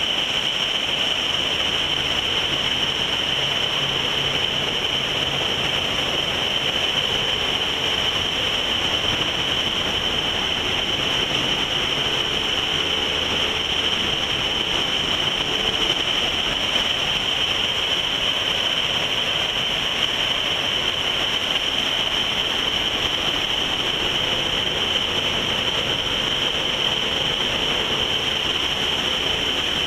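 Steady rushing noise of a boat under way at sea, with a faint low engine drone beneath it.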